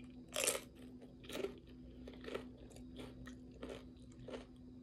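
Tortilla chips crunched and chewed: a loud first bite about half a second in, then about five more crunching chews, roughly one every three-quarters of a second.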